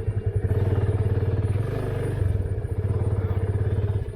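Single-cylinder motorcycle engine idling steadily with an even, rapid thump.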